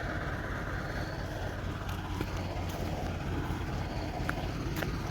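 Tractor engine running steadily at a low, even hum, the tractor stuck on a muddy, rain-damaged road.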